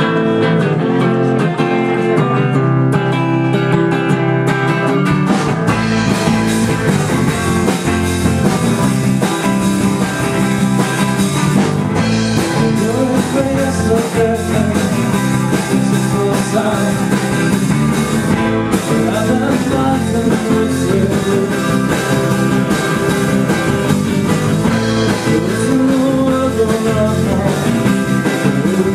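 Live rock band playing, electric guitar to the fore; bass and drums come in about five seconds in, after a guitar opening.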